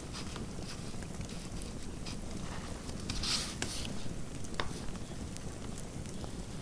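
Fireplace crackling: a steady low rush with scattered sharp pops and snaps, and a brief scratchy hiss a little past the middle.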